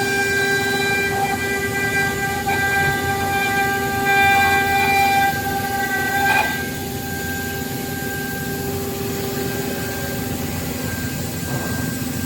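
5-axis CNC router's spindle running with a steady whine of several stacked tones over the cutting noise. About six seconds in the tones dip briefly, the higher ones fade, and the sound drops a little in level.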